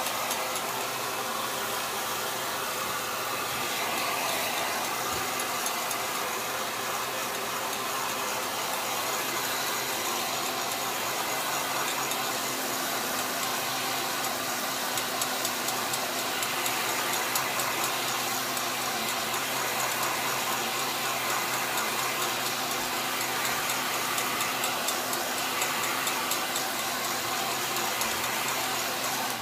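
Electric heat gun running steadily: a constant fan hiss with a low motor hum, warming the vinyl of a motorcycle seat cover so it can be stretched. It cuts off suddenly at the very end.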